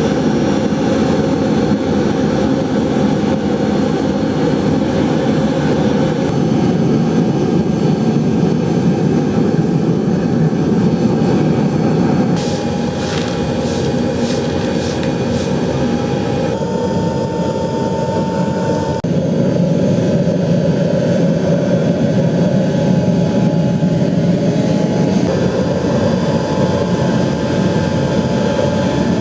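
Forced-air fuel-fired melting furnace running, a loud steady roar from the burner as the furnace heats up for melting bronze.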